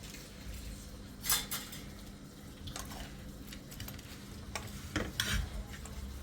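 Spoons and dishes clinking and scraping in a few separate strokes, the loudest about a second in.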